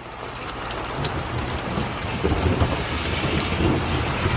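Thunder rumbling slowly louder just after a close lightning strike, over the hiss of falling rain.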